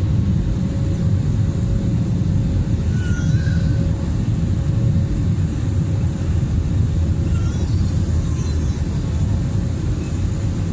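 Airbus A320 cabin noise: a loud, steady low rumble of the jet engines and airflow, with a faint steady hum.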